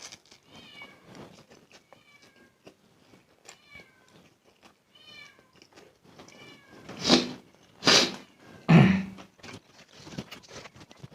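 A cat meowing softly and repeatedly, then three loud noisy eating sounds close to the microphone in quick succession.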